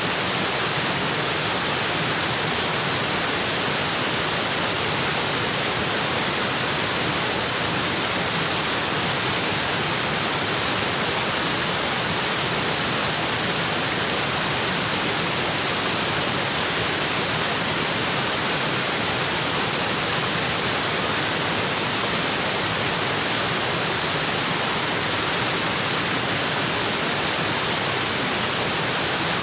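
Waterfall water crashing onto rocks, a steady, even rushing that doesn't change.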